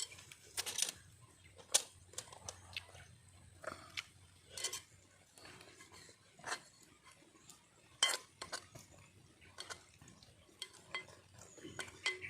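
Utensils clinking and scraping against plates while people eat: scattered short clinks and knocks at an uneven pace, with sharper ones about two seconds in and about eight seconds in.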